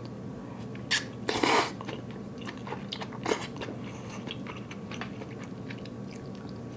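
A person chewing a mouthful of Korean-style hot pot (udon noodles, tofu), with soft mouth and biting sounds. A few short clicks come about a second in, followed by a brief louder noisy sound, then quieter scattered chewing ticks.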